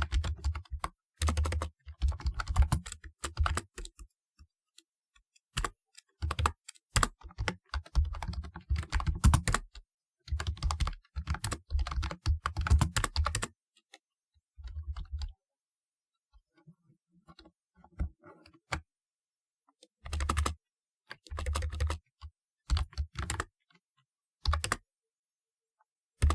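Typing on a typewriter-style keyboard: quick runs of clicky keystrokes, each with a low thud, broken by short pauses. It goes almost quiet for several seconds in the middle, with only a few faint clicks, then resumes in a few shorter bursts.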